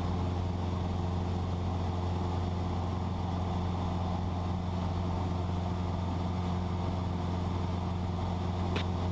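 Cessna 172's piston engine and propeller droning steadily in cruise flight, with a single brief click near the end.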